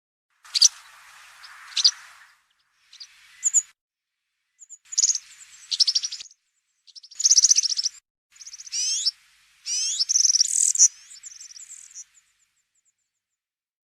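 European serin singing its wild-type 'campero' song: short phrases of rapid, high, jingling notes with quick rising sweeps, stopping about 12 seconds in.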